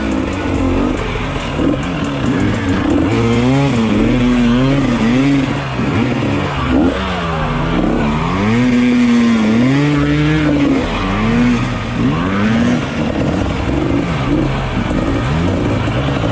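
Dirt bike engine revving up and down over and over, its pitch rising and falling every second or two as if through the gears.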